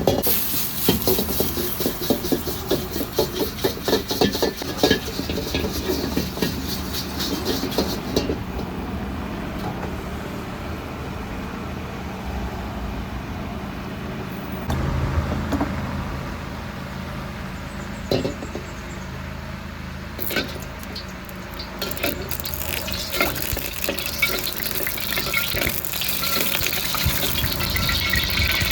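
Street-food kitchen at work: rapid clattering of utensils and cookware in the first several seconds, then running water filling a vessel near the end.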